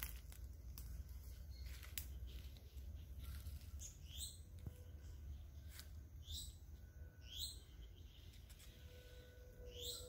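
A small songbird giving short, high, sweeping chirps, four in all, spaced one to two seconds apart, over a faint low rumble with a few soft clicks.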